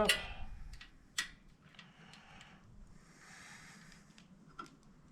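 A few faint clicks and a small knock from metal parts being handled as the oil filter cover bolts go back in, with a soft rustle in between.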